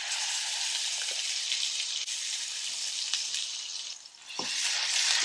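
Onion paste sizzling as it goes into hot oil, a dense frying hiss that starts suddenly, eases a little about four seconds in, then comes back louder.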